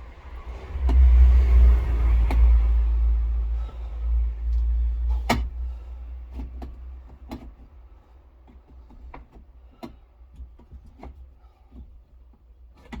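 A heavy low rumble for the first several seconds, then a string of sharp clicks and knocks, typical of hands and tools working on the window regulator inside a car door.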